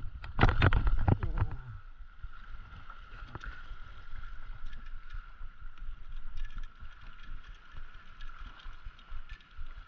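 Seawater sloshing and lapping, with a few sharp knocks in the first second and a half, then a low uneven wash with faint ticks and a thin steady high tone.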